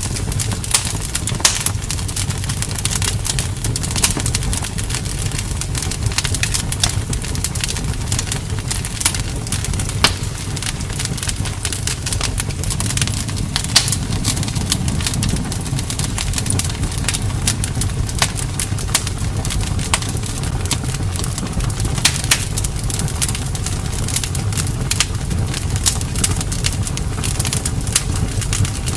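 Campfire burning, with frequent sharp crackles and pops from the burning wood over a steady low rumble of the flames.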